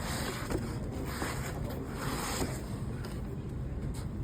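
Rustling and handling noise in swells, with a few faint clicks, over a steady low rumble, as from a laptop's packaging being handled and opened.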